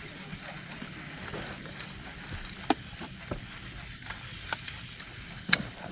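A steady hiss of water and outdoor ambience with a few sharp clicks and knocks, the loudest near the end, as a hooked bass is played and landed into a boat.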